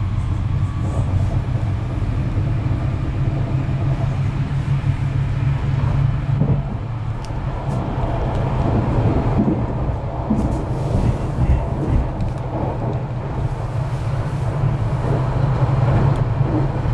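Interior running noise of a Hamburg S-Bahn class 474 electric multiple unit travelling at speed: a steady low rumble of wheels on rail, with a few faint clicks.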